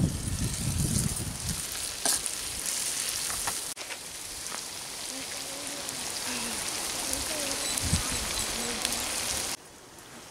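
Goat heart and intestine curry sizzling and bubbling in a large pan, with a slotted ladle moving through it in the first couple of seconds. The sizzle cuts off suddenly near the end.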